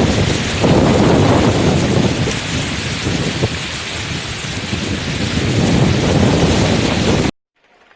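Heavy rain falling, a loud steady rushing noise with a deep rumble underneath; it cuts off abruptly about seven seconds in.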